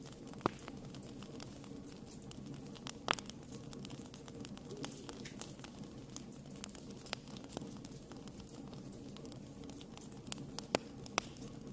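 Wood fire burning in a fireplace: a steady low rumble of flames with scattered crackles and a few sharp snaps, the loudest about half a second in, about three seconds in, and near the end.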